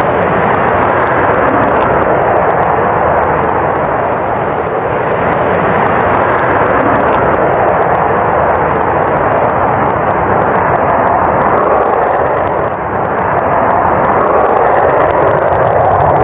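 Jet aircraft engine noise: a loud, steady rushing sound that eases slightly about thirteen seconds in.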